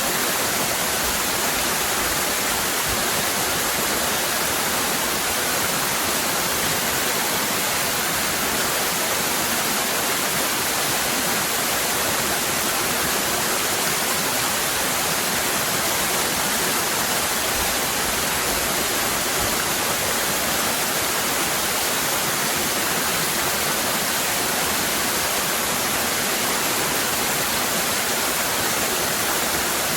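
Cascading waterfall: a steady, even rush of falling water that does not change, mostly hiss with little low rumble.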